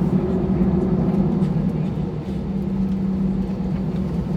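Steady low drone of an Airbus A320's jet engines, heard inside the passenger cabin, with an even hum that holds throughout.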